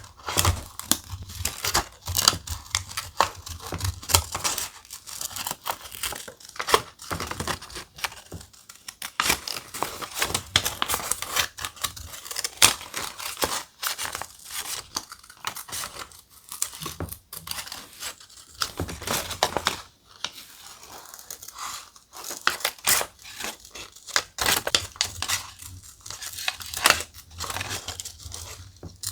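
Thick paper being handled by hand, torn and crinkled in an uneven run of crackly rips and rustles.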